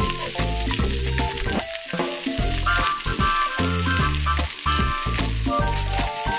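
Diced chicken and sliced onion sizzling in a frying pan while being stirred with a spatula, over background music.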